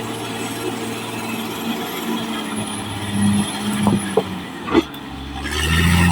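Caterpillar D6R XL bulldozer's diesel engine running steadily, with a few sharp knocks about four to five seconds in. Near the end the engine note deepens and grows louder.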